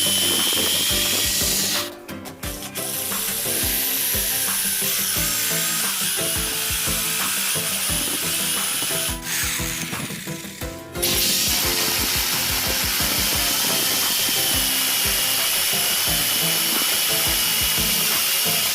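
A power tool running on wood with a steady high whine. It stops briefly about two seconds in and again for about two seconds near the middle, then starts again.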